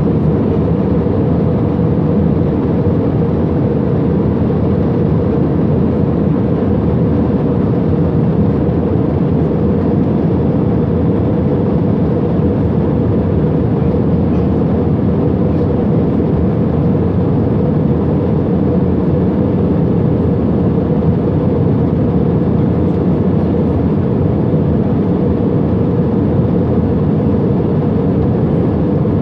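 Passenger airplane cabin noise heard from inside the cabin: the engines and the airflow make a steady, low rushing drone with no change in level.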